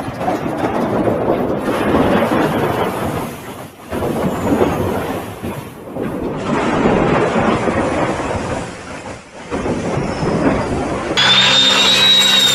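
Loud rumbling vehicle and road noise in several short segments broken by sudden cuts. About eleven seconds in, it gives way to a steady pitched sound with a high whistle-like tone.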